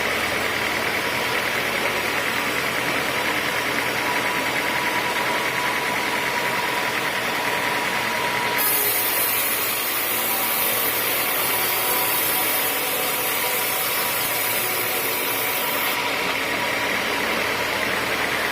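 A sawmill's engine running steadily. A high hiss comes in suddenly about halfway through and stops a few seconds before the end.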